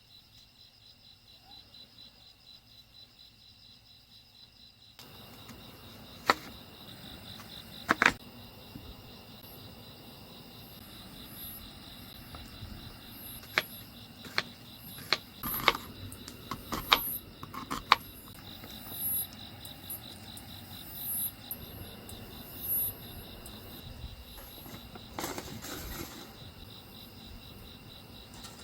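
A steady chorus of insects chirping, with a dozen or so sharp clicks and knocks scattered through from about six seconds in.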